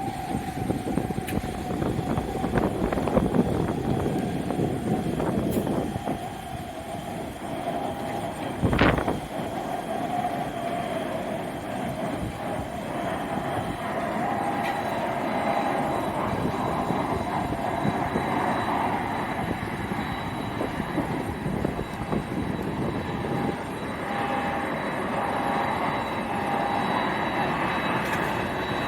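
Jet airliner engines running with a steady whine, under heavy wind rumble on the microphone. A brief thump comes about nine seconds in.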